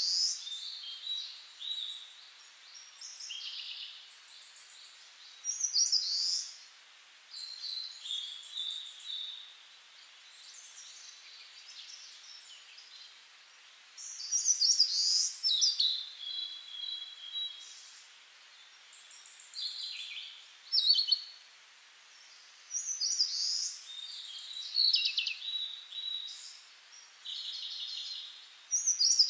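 Songbirds singing: varied high chirps, whistles and short trills in phrases a second or two long, with brief pauses between them.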